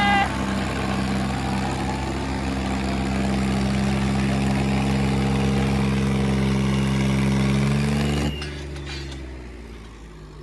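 Tractor diesel engines running hard under load in a tug-of-war pull, with a steady note that rises slightly. About eight seconds in the sound drops off sharply and then fades away.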